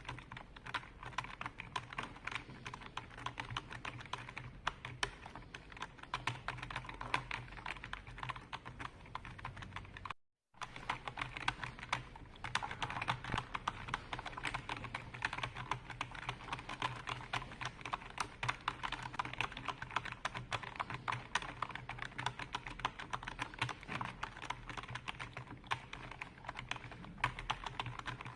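Continuous fast typing on a computer keyboard: a dense, irregular stream of key clicks. The sound cuts out completely for about half a second around ten seconds in.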